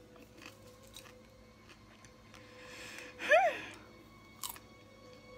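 Popcorn being chewed and crunched, with small scattered crunching clicks. About three seconds in, a rising hiss leads into a loud, short squeaky sound that wobbles up and down in pitch.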